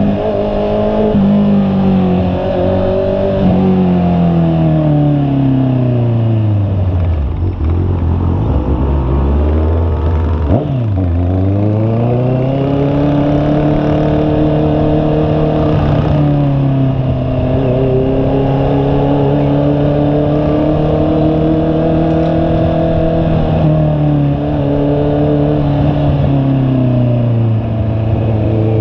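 A Honda CB650R's inline-four engine under way. Its note falls steadily for several seconds as the bike slows, dips sharply about ten seconds in, then climbs and settles into a steady cruise, with a few small steps in pitch at the gear changes.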